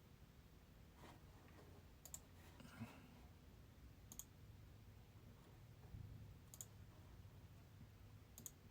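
Near silence with four faint, sharp clicks spaced about two seconds apart, over a low steady room hum.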